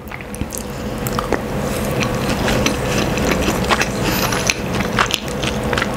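Close-miked chewing of a mouthful of rice and canned sardines in tomato sauce: a dense, continuous run of small mouth clicks and smacks that grows louder over the first second or so.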